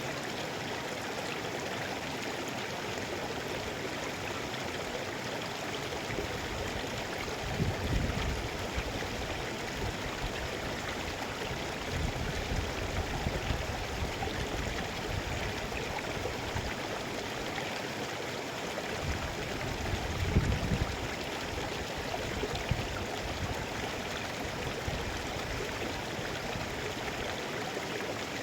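Mountain river flowing with a steady rush of water, broken by a few brief low rumbles about eight, thirteen and twenty seconds in.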